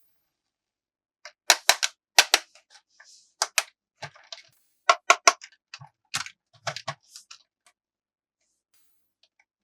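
Sharp clicks and clacks of plastic toy parts being handled during an unboxing, coming in irregular clusters, the loudest between about one and a half and five seconds in, fading out after about seven and a half seconds.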